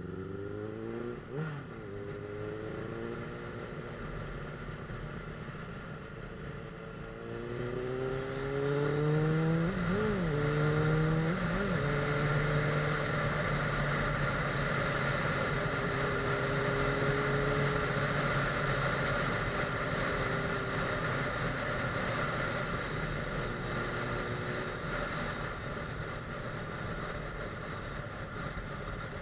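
Suzuki GSF 600 Bandit S inline-four motorcycle engine accelerating through the gears. The pitch rises and drops back at each shift about a second in, and twice more around the middle. It then holds a steady cruise under constant wind rush.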